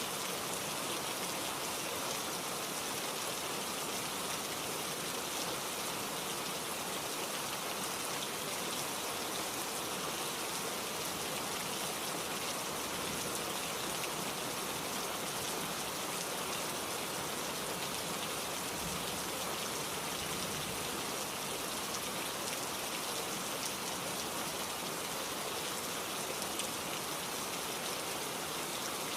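Steady rainfall, with many fine drops pattering on a surface at an even level throughout.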